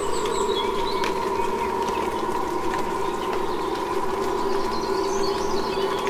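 Small birds chirping in short, scattered calls over a steady background noise.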